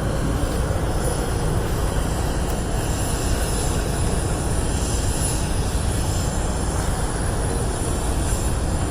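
Aircraft engine noise from an air display: a steady, deep rumble that holds evenly throughout.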